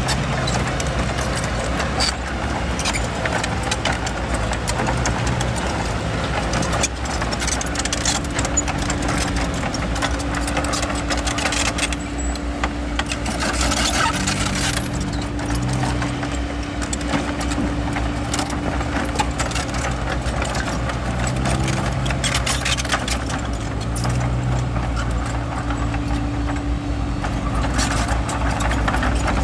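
Bulldozer's diesel engine running under load, with the clanking and knocking of its steel tracks and blade working stone.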